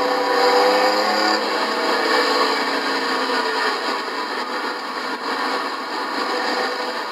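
Race trucks' engines running hard around a short oval, steady engine noise with one engine's pitch sliding down in the first few seconds as it passes.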